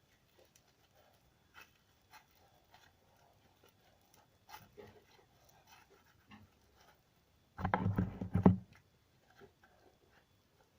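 Slime being squeezed and kneaded with the fingers: scattered faint squelches and clicks, then a loud run of wet squelching and popping for about a second, about three-quarters of the way through. The slime is soft, not hardened.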